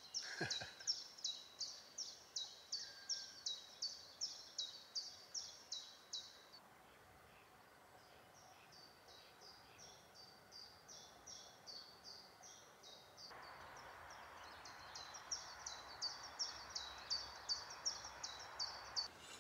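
A small songbird calling over and over in a forest: a regular series of short, high, falling notes, about three a second, fainter for a stretch in the middle. A steady background hiss gets abruptly louder about two-thirds of the way through.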